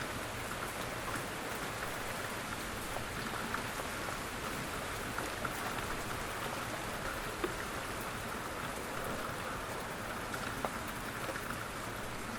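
Steady, gentle rain falling on a surface, an even hiss with scattered individual drop ticks.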